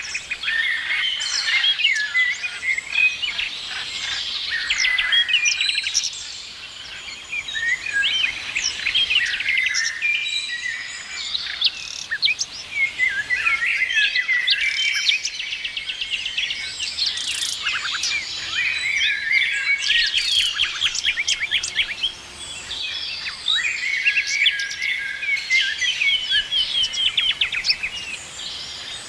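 Several songbirds singing and chirping at once, a dense chorus of short chirps, quick trills and rapid note series, with brief lulls now and then.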